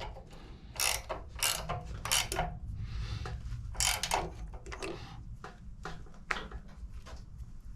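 Ratchet spanner clicking through a series of short, uneven strokes as the footrest bolts are tightened.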